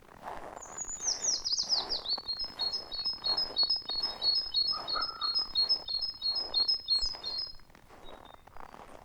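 A small songbird singing: a quick run of high notes falling in pitch, then a long, fast, even series of repeated high two-part notes that stops near the end. Under it, steady soft crunching of footsteps in snow at walking pace.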